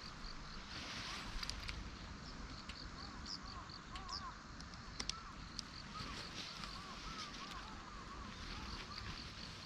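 Birds calling: runs of short, rapidly repeated chirping notes at two pitches, with a few sharp clicks, over a steady outdoor hiss.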